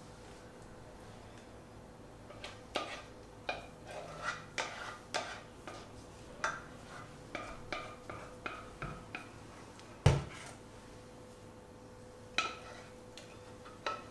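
Kitchen dishes and cutlery being handled: a run of short clinks and knocks, then a dull, heavier thud about ten seconds in, and a couple more clinks near the end.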